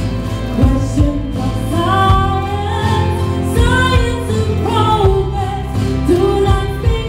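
A woman singing a pop song with a steady bass-heavy instrumental accompaniment.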